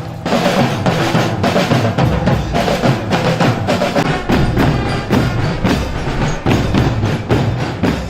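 Loud drum-led percussion music, with many sharp strikes in a fast, steady rhythm.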